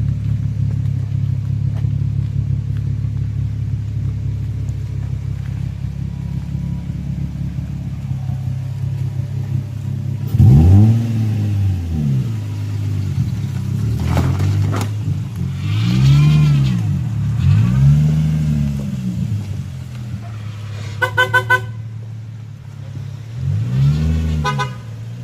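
Nissan 350Z's V6 engine idling steadily, then revved four times in short blips that rise and fall in pitch. Midway through the revs, a quick string of short car-horn toots, then another brief toot near the end.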